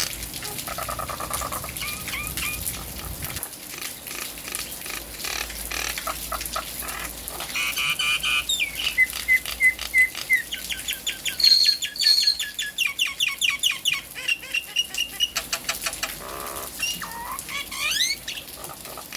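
Jalak nias myna singing a varied song of rapid repeated chattering notes, runs of short clear whistles and quick trills, loudest in the middle, with rain falling as a steady hiss behind it.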